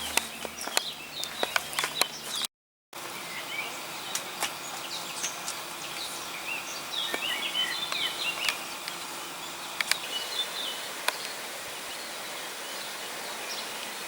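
Steady rain hiss with scattered drop taps, and small birds chirping several times in the middle.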